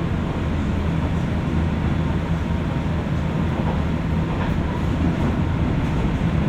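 Running noise inside a JR West 201 series electric motor car, heard from above its armature chopper: a steady rumble with a faint steady high tone.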